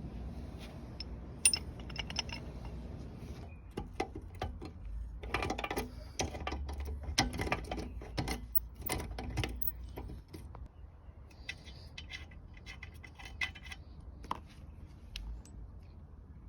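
Metal tools and parts clinking and clicking in irregular bursts, with a busier stretch in the middle and another flurry toward the end.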